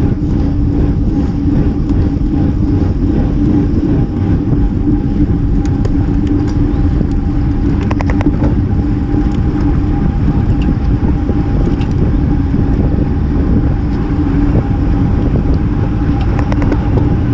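Steady rush of wind and road noise on a bicycle-mounted action camera during a road race, with a constant hum underneath. A short cluster of clicks about eight seconds in.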